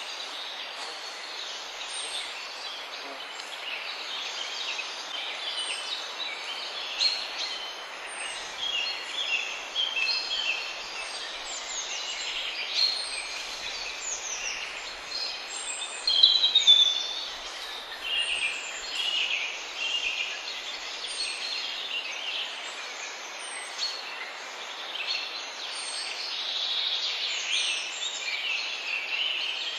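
Dense chorus of many songbirds chirping and trilling over a steady hiss, with a thin high note repeating about every two seconds and a louder flurry of calls about halfway through.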